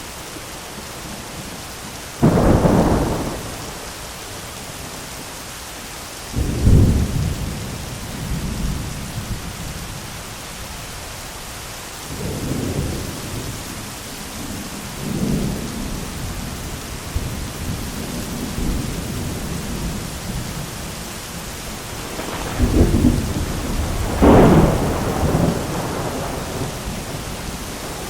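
Steady heavy rain with repeated claps and rumbles of thunder: sharp cracks about two and seven seconds in, softer rolling rumbles in between, and a long double crack and roll near the end.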